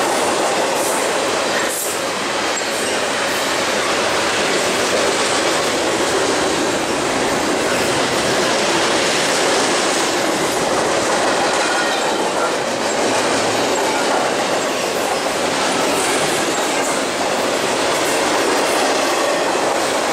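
Double-stack container cars of a BNSF freight train rolling past steadily: the continuous noise of steel wheels running on the rails.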